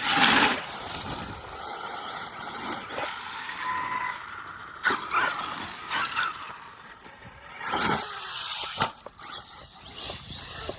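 Battery-powered Arma Mojave EXB RC truck being driven flat out over rough, rocky ground: its electric motor whines and its tyres scrape and spray gravel. Loud bursts come right at the start, about five seconds in and about eight seconds in.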